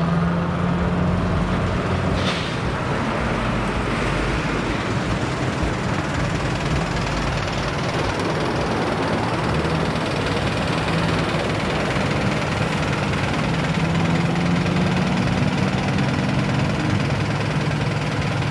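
Modified car's engine and exhaust running steadily with a low, rough drone, its pitch clearest near the start and again near the end, and a brief hiss about two seconds in.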